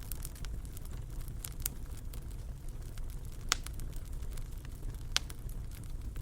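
Wood fire in a fireplace crackling over a steady low rumble, with irregular sharp pops, two of them louder, one about halfway through and one near the end.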